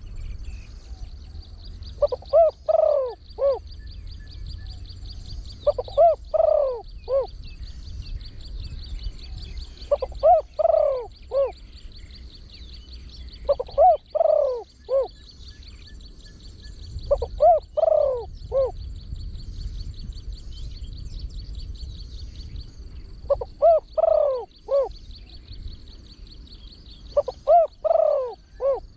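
Spotted dove cooing its deep-voiced song, a phrase of three or four short coos repeated about every four seconds, seven times. A steady insect trill runs behind it.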